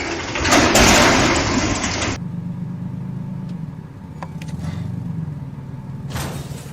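Vehicle sounds: loud rushing road noise for about two seconds, then after a sudden cut a vehicle engine running with a steady low hum.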